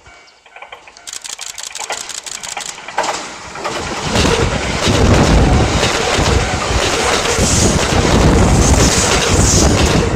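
Electric commuter train on the Kintetsu Nara Line approaching and passing through a level crossing. The sound builds over the first few seconds, and from about four seconds in the train runs past loudly with wheel and rail noise.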